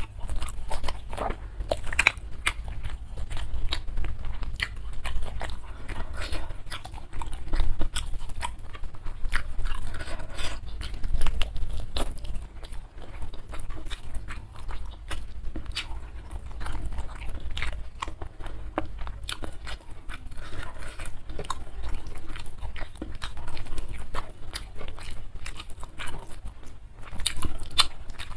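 Close-miked chewing of a rice meal: a steady run of short, quick mouth clicks and crunches with no pauses.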